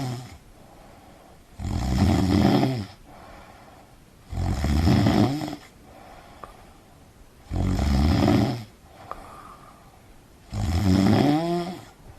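Snoring: four long, loud snores come at an even pace, about one every three seconds, with quieter gaps between them. The last snore ends on a rising, whistle-like tone.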